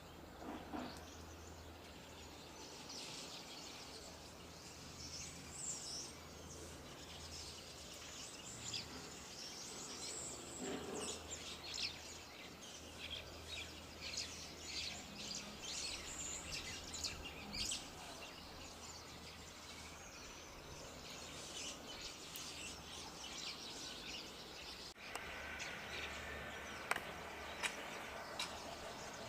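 Songbirds chirping outdoors, many short high calls in quick succession, over a steady low rumble of background noise.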